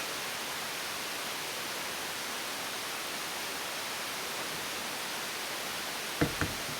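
Steady, even background hiss of a workshop room, with two short knocks near the end.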